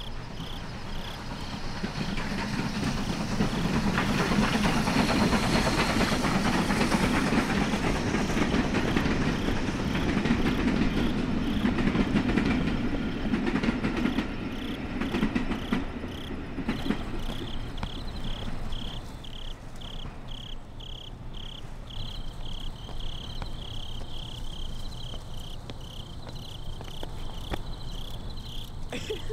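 A train rumbling and clattering along the tracks. It builds to its loudest in the first half and fades away by about halfway through. Crickets chirping in rapid, even pulses come through once the train has gone.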